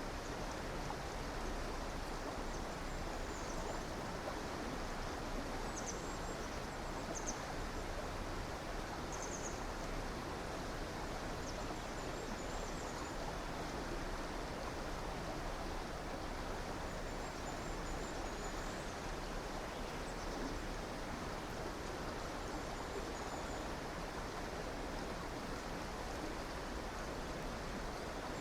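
A river flowing steadily, with faint high chirps of small birds now and then.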